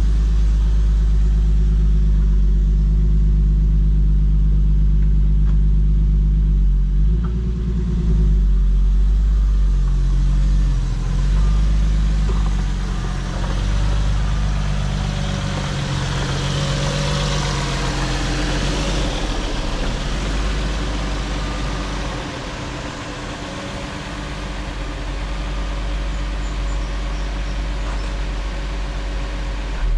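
2012 Infiniti G37S's 3.7-litre V6 idling steadily, still warming up after a cold start, heard from beneath the car. The sound changes after about 7 seconds and gets hissier mid-way, as the microphone moves around the underside.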